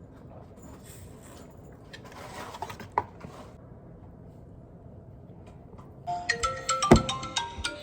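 Faint rustling with one sharp click about three seconds in. About six seconds in, a quick electronic chime melody of short stepped notes starts: an incoming call ringing on the work phone.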